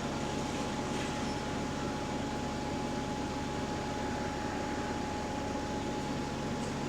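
Steady drone of a bus heard from inside the saloon: engine and ventilation hum with a thin, constant whine over it, unchanging throughout.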